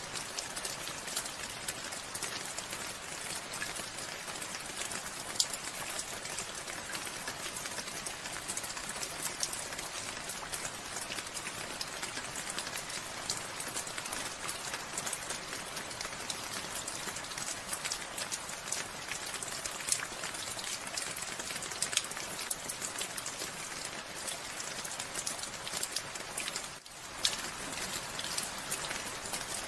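Steady rainfall, a dense hiss of many individual drops striking the ground and leaves. The sound dips briefly for a moment near the end, then carries on.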